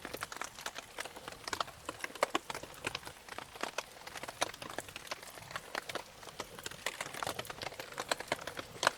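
Wood campfire crackling: many irregular sharp pops and ticks of varying loudness, several a second, with one louder pop near the end.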